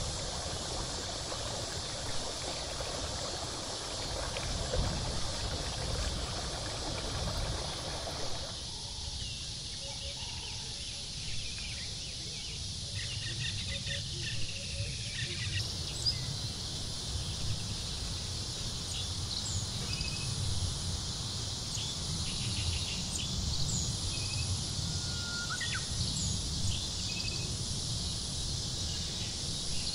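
Tropical forest ambience: a steady high drone of insects with a low rumble underneath. From about halfway in, short bird chirps and whistles are scattered through it. The background changes abruptly twice.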